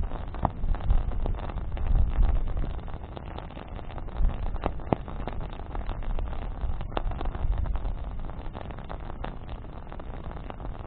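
Riverbank bonfire burning with a steady crackle and a few sharper pops, over a low, uneven rumble.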